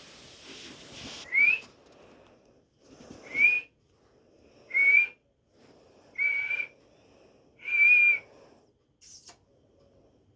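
Pet parrot whistling five times, each note a quick rise that levels off, about half a second long and roughly a second and a half apart, the later notes held longer and flatter.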